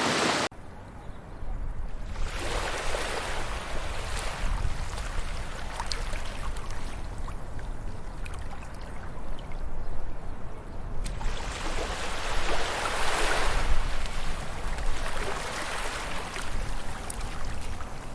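Sea waves washing in over a steady low rumble, two surges swelling and fading about nine seconds apart. A louder wash cuts off abruptly just after the start.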